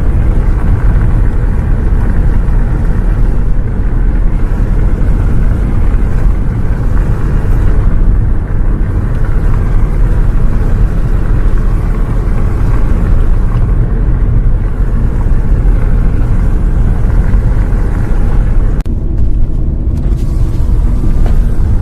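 A bus on the road: a loud, steady low rumble of engine and road noise, which cuts in suddenly.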